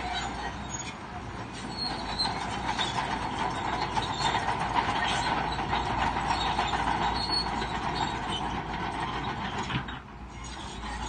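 Crawler bulldozer running under load, its steel tracks squealing and clanking steadily, easing briefly near the end.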